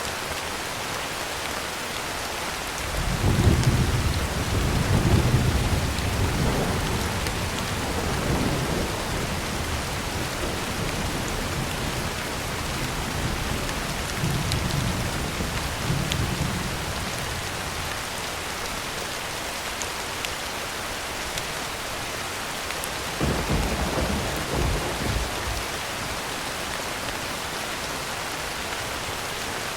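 Heavy rain falling steadily on a tin roof, with rolls of thunder. A long rumble starts about three seconds in, a weaker one comes in the middle, and another short rumble comes near the end.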